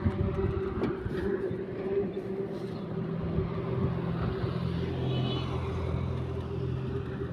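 An engine running steadily with a low hum; its deeper notes grow stronger about halfway through.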